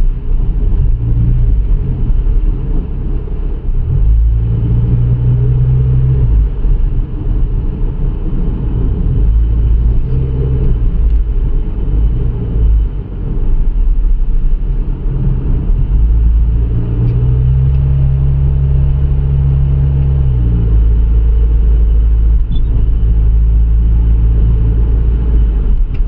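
Hyundai Tucson driving, with a steady low engine and road drone. The engine note rises and holds higher twice, about 4 seconds in and again about 17 seconds in. The car's automatic transmission shifts late and hard and no longer downshifts, and the mechanic judges both the engine and the transmission faulty.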